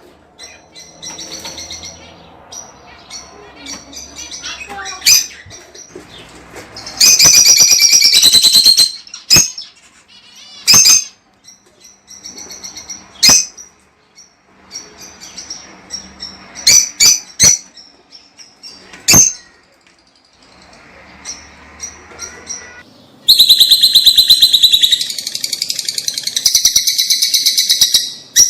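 Lovebirds calling: sharp, high single chirps scattered through, with two runs of rapid, harsh chattering, a short one about seven seconds in and a longer one from about twenty-three seconds to the end.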